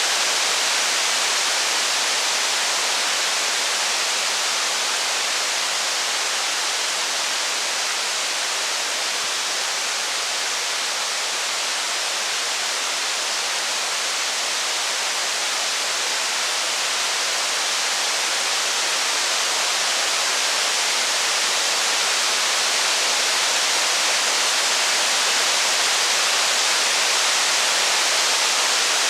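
Steady rain, an even unbroken hiss, with no thunder or fire crackle heard.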